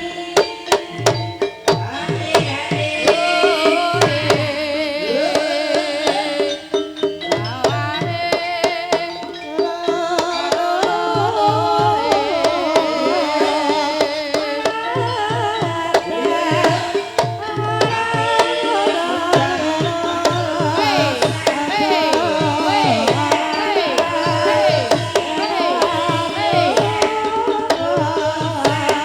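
Javanese gamelan music accompanying an ebeg dance: kendang hand drums beat steadily under metallophone melody, with a voice singing over it.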